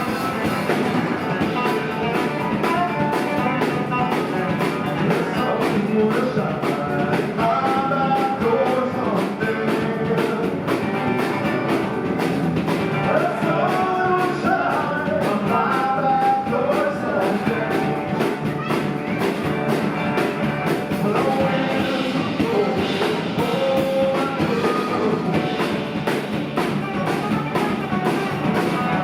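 Live rock band playing an instrumental jam, with lead guitar lines over bass and drums.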